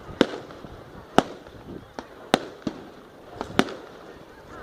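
Fireworks going off, about six sharp bangs at irregular intervals, each followed by a short ringing tail.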